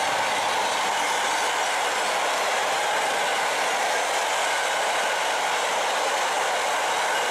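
A freight train of covered double-deck car-carrier wagons rolling past at speed: a steady rolling noise of steel wheels on the rails.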